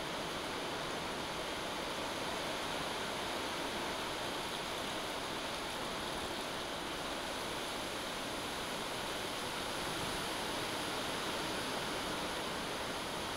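Steady rain falling in a thunderstorm: an even, unbroken hiss with no thunder claps.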